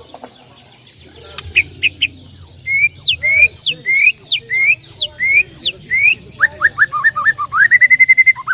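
A songbird singing loudly: a series of clear down-slurred whistles at about two a second, then a quick run of short rising notes ending in a fast trill.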